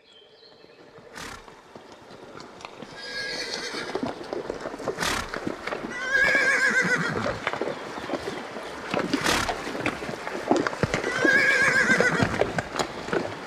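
Horse whinnying three times, each a wavering high call, with sharp knocks and small clattering sounds between the calls. The sound fades in at the start.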